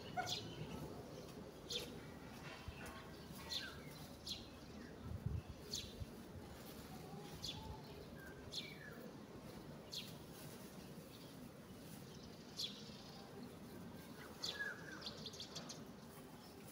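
Small birds chirping faintly, short sharp chirps about once a second, with a soft low thud about five seconds in.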